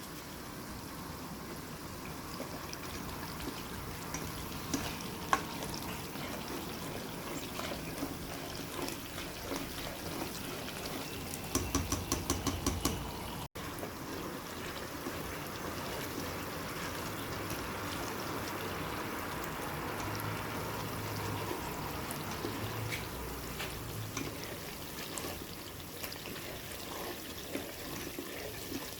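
Garlic and chili frying in oil with a steady sizzle, a utensil stirring and clicking against the pan now and then. About halfway through comes a quick run of clicks, around seven a second, for a couple of seconds.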